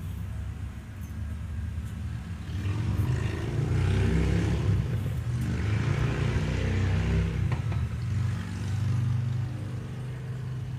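A low, steady engine-like rumble, as of a running motor vehicle, that swells louder for a few seconds in the middle and then eases back.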